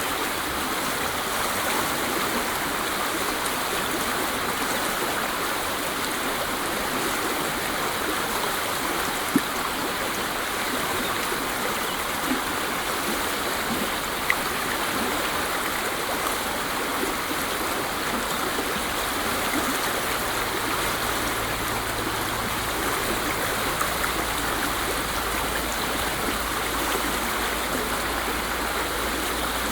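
Waterfall: falling water rushing in a steady, even wash of noise, with a few faint splashes standing out. A low rumble joins in about two-thirds of the way through.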